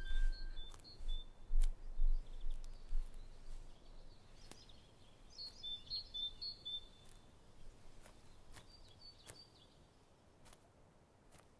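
Birds chirping in three short clusters of high notes over a faint outdoor background, with scattered small clicks. Dull low thuds, the loudest sounds, come in the first few seconds and then die away.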